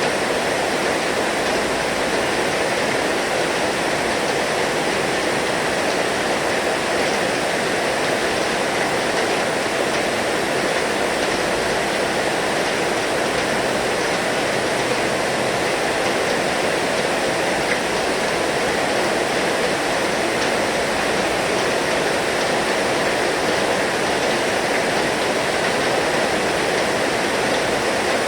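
Heavy rain falling, a steady, unbroken rush of noise.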